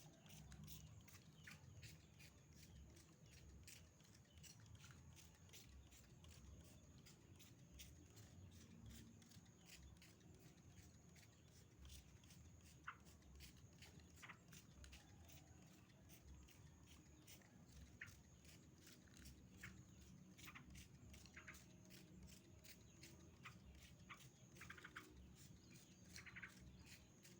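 Near silence, with faint, scattered short bird chirps and a thin steady high-pitched whine.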